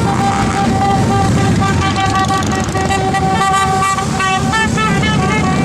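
Vehicle horns sounding over the low rumble of many motorcycle engines. The horn tones hold steady, then change pitch in quick steps a little after halfway.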